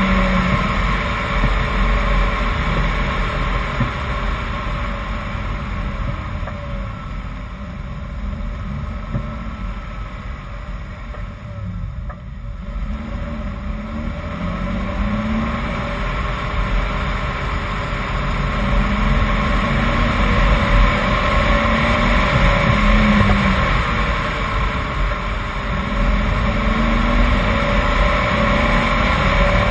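BMW 328i's straight-six engine pulling through a run of corners, its pitch rising and falling as it accelerates and eases off, over steady tyre and wind noise. It is quieter around the middle, then builds up again.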